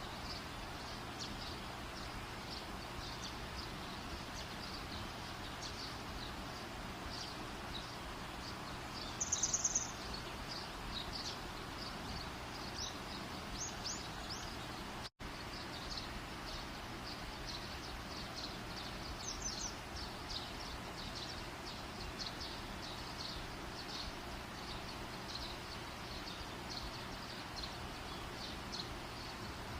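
A wood campfire burning, with a steady hiss and frequent small crackles and pops. A brief high-pitched pulsing trill sounds about nine seconds in.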